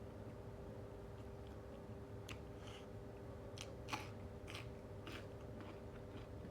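A person chewing and eating close to the microphone: a run of short wet clicks and smacks through the middle, one sharper than the rest, over a steady faint hum.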